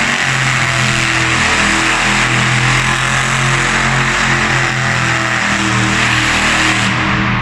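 Monster truck V8 engine held at high revs, a loud, steady drone, while the truck spins donuts.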